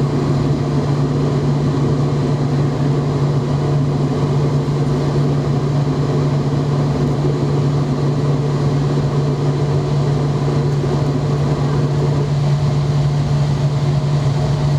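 Steady drone of a McDonnell Douglas MD-90 airliner: a constant low hum over a broad rumble, holding the same pitch and level throughout.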